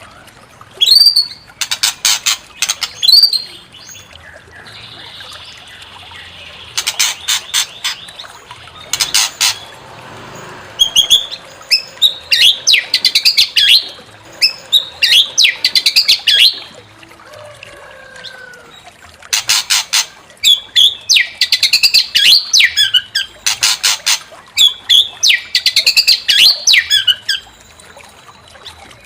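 White-rumped shama (murai batu) singing. Loud bursts of harsh, rapid rattling chatter alternate with quick runs of varied whistled phrases.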